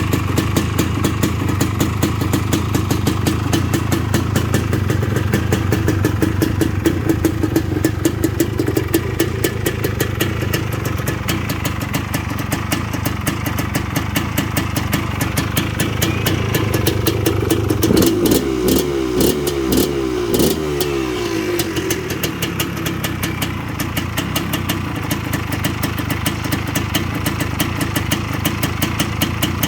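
1988 Honda TRX250R's two-stroke single-cylinder engine idling cold, with a few quick throttle blips a little over halfway through.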